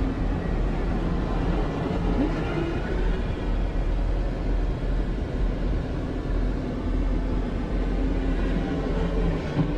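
Heavy diesel engine running steadily with a low drone.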